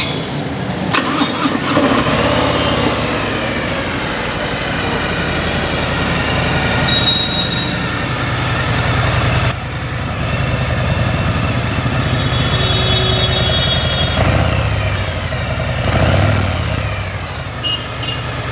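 Harley-Davidson Fat Boy's V-twin engine starting about a second in, then running through its exhaust with a steady low rumble and a few swells of throttle.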